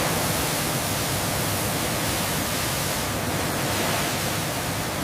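Steady, even rushing noise with no distinct knocks, tones or rhythm.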